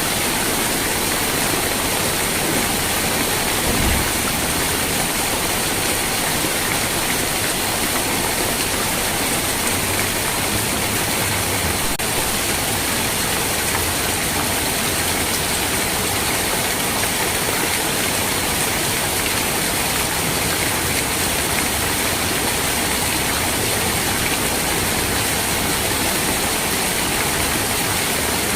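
Steady rain, an even unbroken hiss, with a brief low thump about four seconds in.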